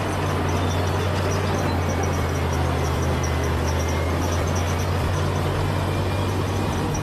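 Bulldozer's diesel engine running steadily at working speed, a deep even drone with a rough mechanical rattle over it.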